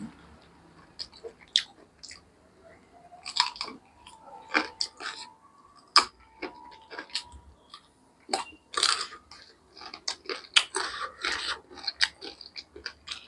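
A man biting and chewing chicken off the bone, close to the microphone: a run of short, irregular mouth clicks that come faster in the second half.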